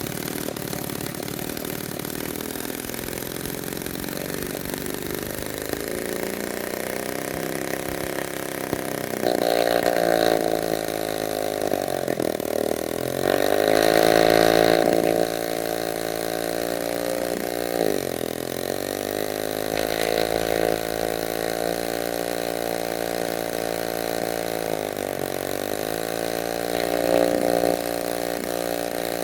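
1946 Power Machinery chainsaw engine running and being revved up and down. Its pitch climbs and falls several times, dropping briefly toward idle between runs up.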